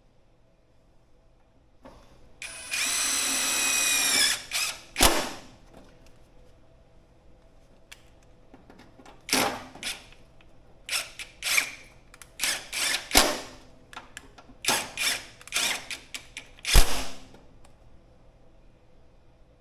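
A power drill runs at speed for just under two seconds, its pitch dropping as it stops. A knock follows, then a string of short, separate bursts and knocks, as when fastening small parts to a metal stand.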